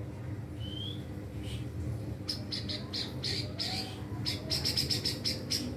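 White-rumped shama singing: a short rising whistle, then from about two seconds in a fast series of sharp, high notes, about six a second near the end.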